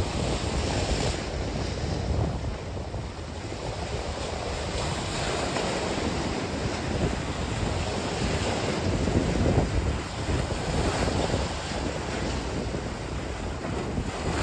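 Wind buffeting the phone's microphone in a low, uneven rumble, over the steady wash of ocean surf.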